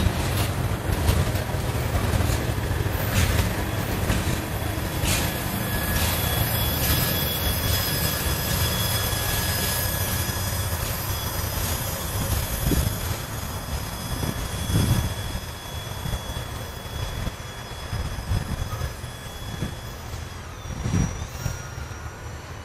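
Freight train of tank cars and wrapped lumber cars rolling past on steel wheels, with a steady rumble, sharp clanks and a thin high wheel squeal. The squeal and clanks die out about halfway through, leaving the rumble of the cars moving away.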